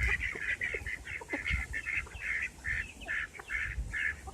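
Flock of backyard poultry calling: a rapid, overlapping run of short, duck-like calls, several a second, with a few low thuds among them.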